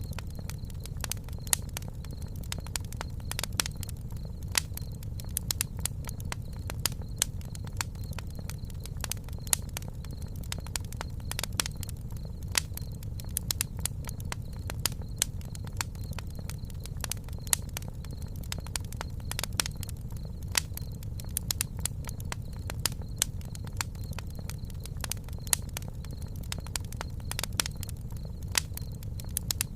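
Campfire burning: wood crackling and popping in frequent, irregular sharp snaps over a steady low rumble.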